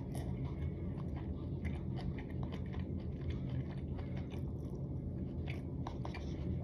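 Close-miked chewing of a mouthful of dry hot pot meat, with many small, irregular wet clicks of the mouth and teeth.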